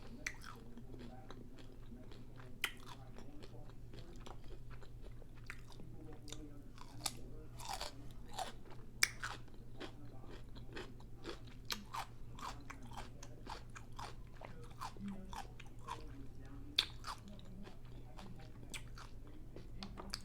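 Close-up chewing and crunching of a crisp taco-boat shell filled with chorizo, with irregular sharp crunches and a few louder bites.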